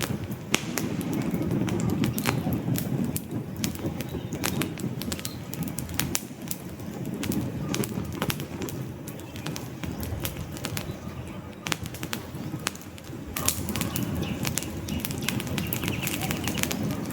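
Wood campfire crackling, with many sharp pops and snaps over a low rumble of the flames that swells near the start and again in the last few seconds.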